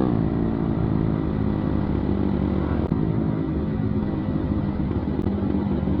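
Yamaha MT-15 single-cylinder motorcycle engine idling steadily through a modified exhaust with the dB killer removed, which makes it very loud.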